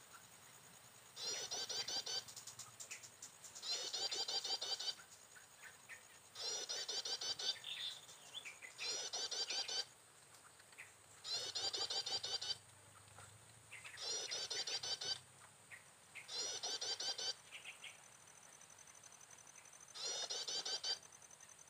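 A bird call played on a loop as a trapping lure. The same chirping phrase, about a second long, repeats roughly every two seconds, about eight times, with a longer pause near the end.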